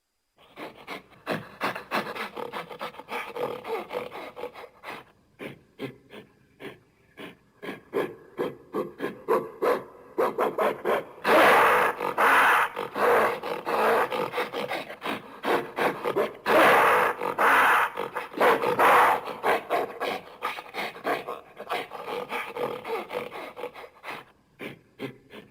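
Gorilla vocalizing in rapid, rough grunting pulses, with two louder, harsher bouts in the middle.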